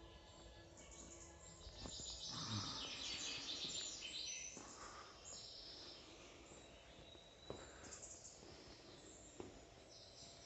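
Birdsong, faint: a burst of fast, high twittering from about two to five seconds in, then quieter chirps, with a few soft clicks.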